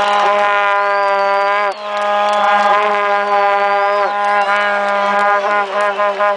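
Several vuvuzelas blowing at once. One holds a steady low drone throughout, while others sound in long blasts that cut off and restart, with pitch bends at the ends.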